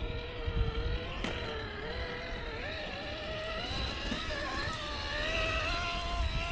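RC rock crawler's electric motor and gear train whining as it crawls, the pitch wavering and creeping upward with the throttle. It is geared down with a 12-tooth pinion in place of the stock 14, which changes how it sounds.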